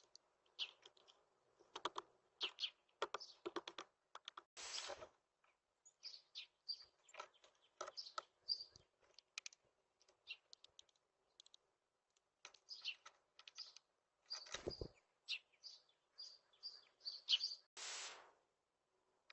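Faint, irregular short chirps from small birds, mixed with scattered clicks and taps, and two brief rustling bursts, one about five seconds in and one near the end.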